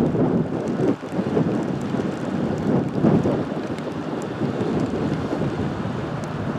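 Gusting wind buffeting the microphone in a rising and falling rumble, with scattered light ticks of blowing rain.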